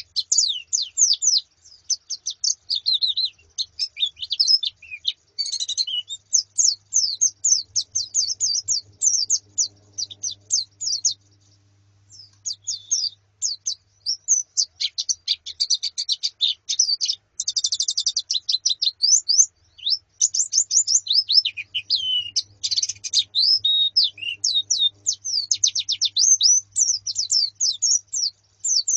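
A flock of white-eyes (pleci), females among them, twittering in dense runs of high, rapid chirps and trills, with a brief lull about twelve seconds in.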